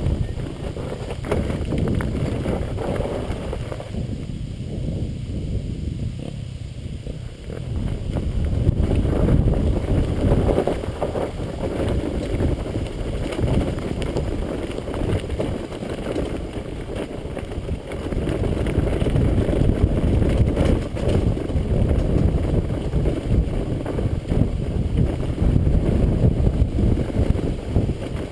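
Wind buffeting the microphone while a dirt bike is ridden: a dense low rumble with no clear engine note. It thins for a few seconds around four to seven seconds in.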